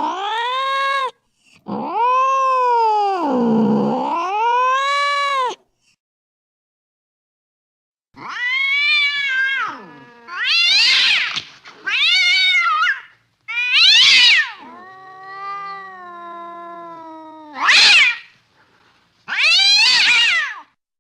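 Cats caterwauling: long yowls that dip and rise in pitch, then after a short pause a string of shorter, higher-pitched yowls and meows.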